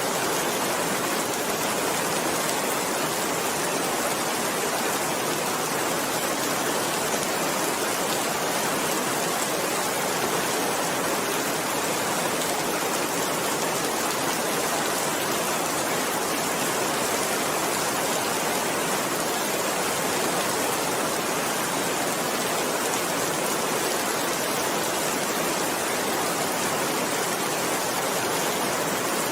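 Steady rain falling, an even, unbroken hiss that neither builds nor eases.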